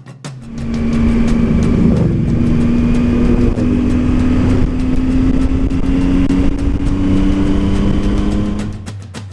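Triumph Tiger 800's three-cylinder engine running steadily while the motorcycle cruises, its pitch creeping slightly upward, with wind noise underneath. It fades out near the end.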